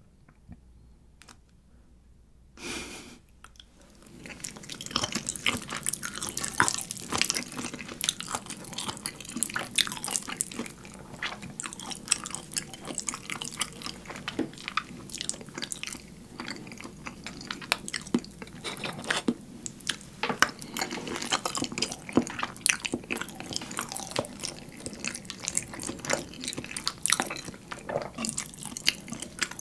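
Close-miked chewing of a thick, creamy shrimp carbonara with melted mozzarella: wet, sticky mouth sounds with many sharp smacks and clicks, starting about four seconds in after a near-quiet opening.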